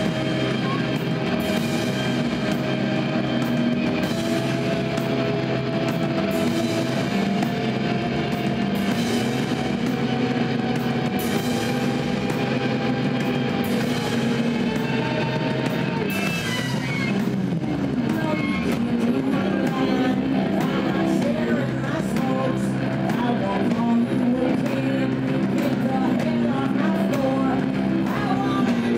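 Live rock band playing an instrumental passage: guitar over a steady bass line, with long held notes and a constant loud level.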